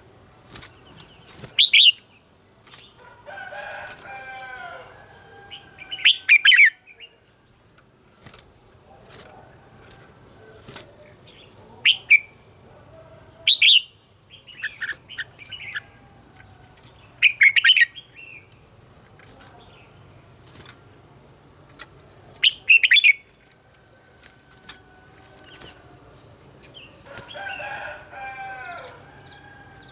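Red-whiskered bulbuls singing: short, loud, bright phrases every few seconds, with softer, lower warbled phrases in between and scattered sharp clicks.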